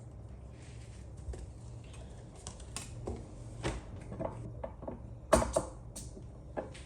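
Irregular light clicks and taps, as of small objects being handled, with one sharper knock about five seconds in, over a low steady room hum.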